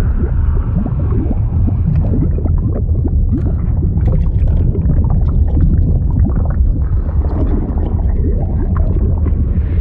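Steady, deep bubbling and gurgling liquid sound effect, heavy in the low end, with many short gurgles throughout.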